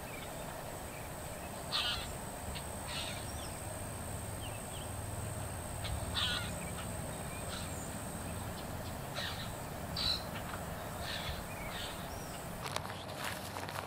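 Bird calls: about eight short calls scattered through, over a steady low hum and a thin high steady tone that stops about two-thirds of the way in.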